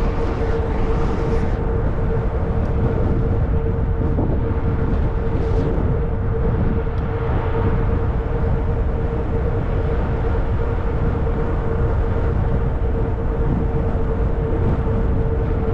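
Wind buffeting the microphone with a steady low rumble while riding a fat-tire e-bike. A thin, steady whine holds at one pitch throughout, typical of the e-bike's electric motor under pedal assist.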